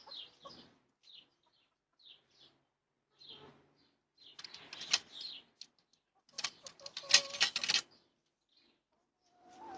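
Backyard hens giving short, high chirping calls, followed by two bouts of rapid clattering, the second and louder one lasting over a second.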